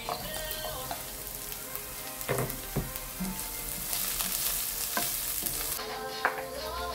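Diced red onion and other chopped aromatics sizzling in oil in a nonstick frying pan, with a plastic slotted spoon stirring and a few knocks of the spoon against the pan.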